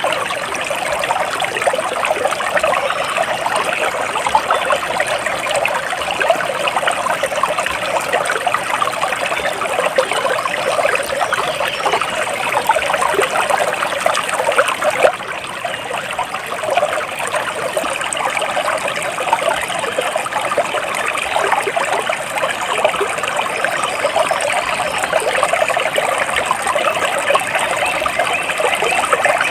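Water flowing and trickling steadily, with a dense patter of small splashes; it dips slightly for a moment about halfway through.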